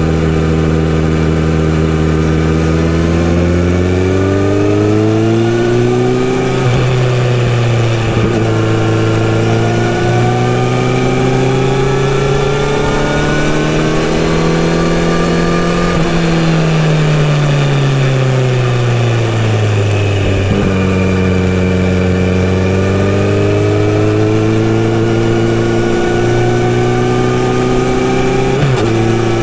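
Kawasaki Z900RS inline-four engine through a full-system exhaust, heard while riding: it revs up and shifts up a gear about six seconds in, then pulls steadily with the revs slowly climbing. Midway the revs fall away as the throttle is rolled off, and then they build again.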